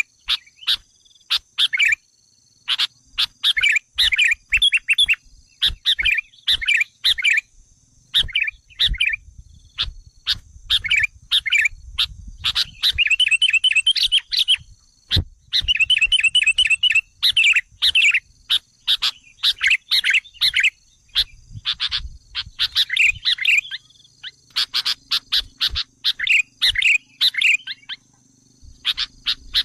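Sooty-headed bulbul (kutilang) calling excitedly, played as a lure recording: quick chattering phrases and short sharp notes repeated with brief gaps. A faint steady high-pitched tone sits behind them.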